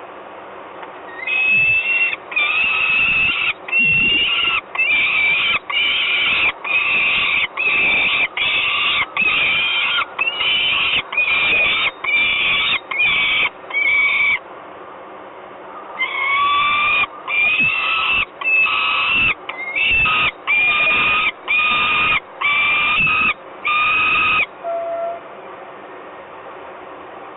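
Peregrine falcon calling loudly at the nest: a long series of harsh, even-pitched screams, about one and a half a second. The series breaks off for a second or two in the middle, then runs on until a few seconds before the end.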